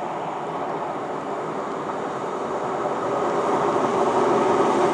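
Class 150 Sprinter diesel multiple unit running at the platform: a steady diesel drone and hum that grows gradually louder over the last couple of seconds.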